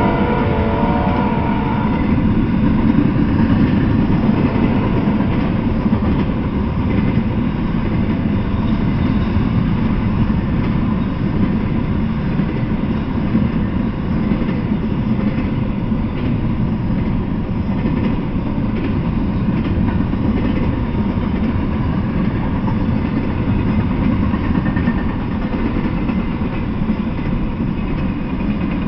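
Double-stack intermodal freight train passing at speed: the steady, loud rumble of its well cars' wheels running on the rails. A few steady ringing tones sound over it at first and fade out within the first two seconds.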